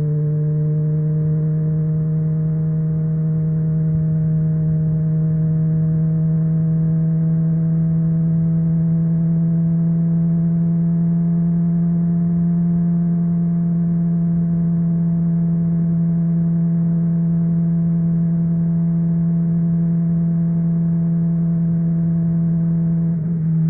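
Honda CBR600RR inline-four engine running through a MIVV Suono exhaust at steady cruising revs. One even tone, rising slightly over the first several seconds and then holding level, with a brief dip in revs near the end.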